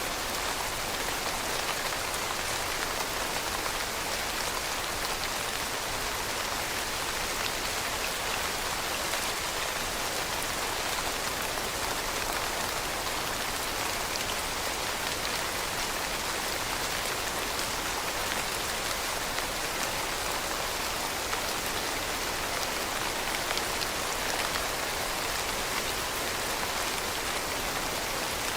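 Steady rain falling and pattering on a surface, an even hiss with fine drop sounds.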